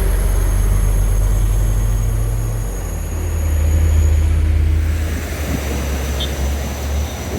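A heavy diesel truck engine running hard under load. Its note steps down in pitch about three seconds in, then swells louder before easing off.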